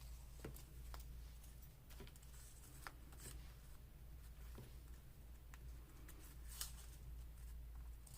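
Faint paper handling: light rustles and small scattered taps as cut paper pieces are moved and laid on a page, over a low steady hum.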